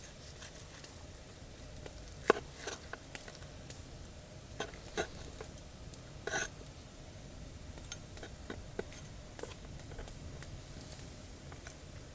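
A campfire crackling with scattered small pops and a few louder sharp knocks, the loudest about two seconds in, over a low steady rumble.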